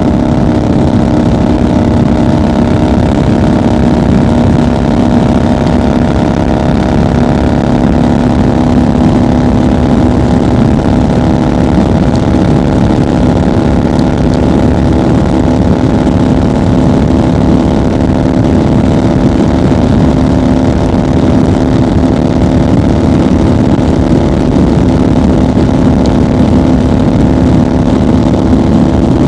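1990 Harley-Davidson FXR's Evolution V-twin engine running steadily at highway cruising speed, a constant throbbing note without shifts or revs.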